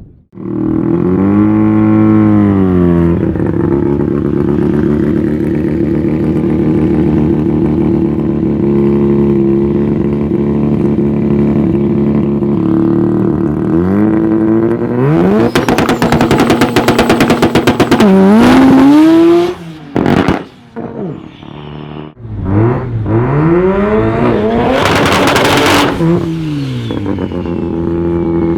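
Turbocharged Mazda 13B rotary engine in a VW Beetle, with a short rev blip, then running steadily before being revved hard twice: each time the pitch climbs to a loud, buzzing high note and then cuts off suddenly.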